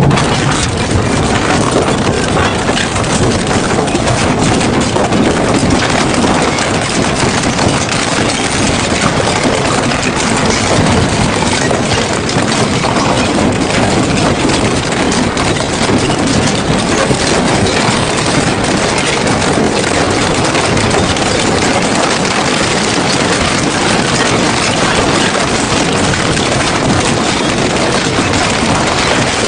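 Double-shaft metal shredder running under load, its cutter shafts grinding and crunching scrap metal in a steady, dense crackle.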